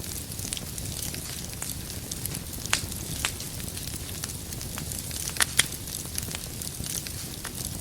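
Wood fire burning in a fireplace: a steady low rumble and hiss with scattered sharp crackles and pops from the firewood, a few louder pops around three and five and a half seconds in.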